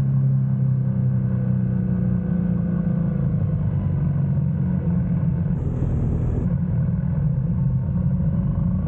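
GS motorcycle engine running at a steady pitch while riding, with a low rumble underneath.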